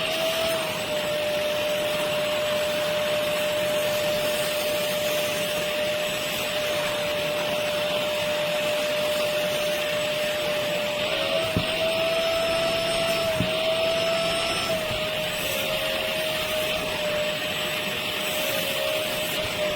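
Motor of a 450 W wet upholstery and carpet cleaner running steadily, a constant suction noise with a whine whose pitch wavers slightly about halfway through.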